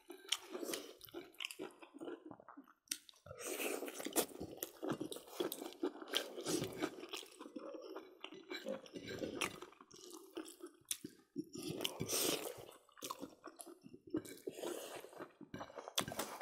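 Close-miked chewing and mouth noises of people eating pork with mustard greens and rice by hand, with many irregular small clicks.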